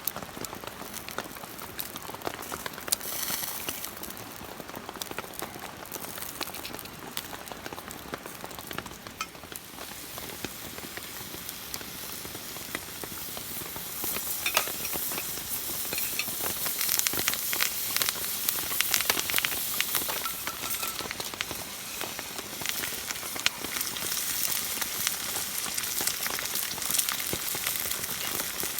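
Food sizzling and frying in a skillet, a dense crackle that grows louder about halfway through.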